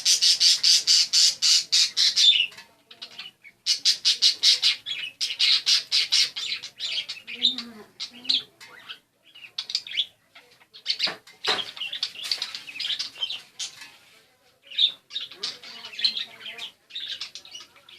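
Budgerigar chattering in long runs of rapid, scratchy squawks and chirps, with short pauses between runs and shorter calls later on.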